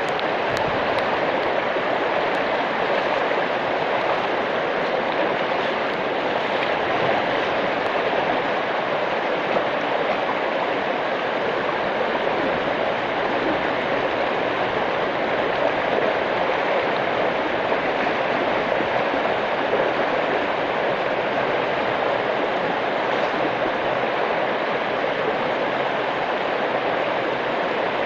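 Steady rushing of water, an even noise without let-up.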